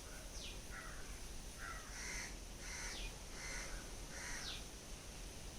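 Birds calling outdoors: a run of short calls repeating about every half second, with a few sharp falling whistles among them.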